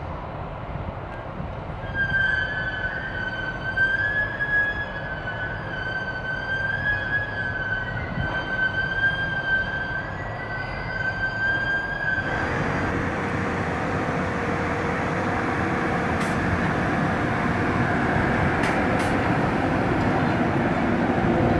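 A train, with a long, steady high-pitched tone held for about ten seconds, then a sudden switch to the rushing noise of the train running by, with a few sharp clicks near the end.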